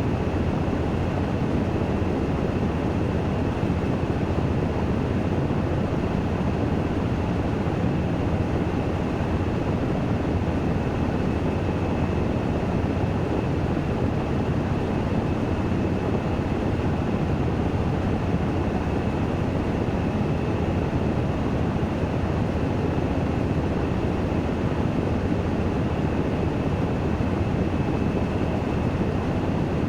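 Washing machine on its spin-dry cycle, the drum spinning at full speed: a steady, even running noise with a faint high whine over it.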